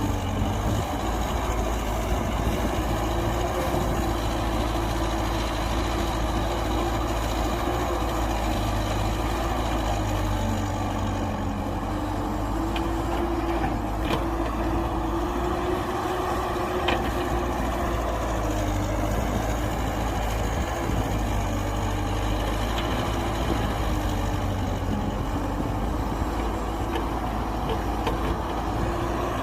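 Heavy diesel engine of earthmoving machinery running steadily, its pitch wavering slightly, with a couple of faint sharp clicks near the middle.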